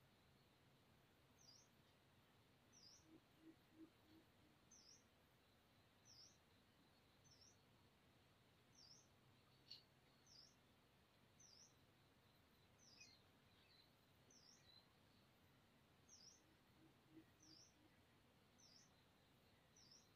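Faint, evenly repeated high chirps from a small bird, a little under one a second, each note dipping and rising in pitch, over quiet outdoor background noise. One sharp tick sounds about halfway through.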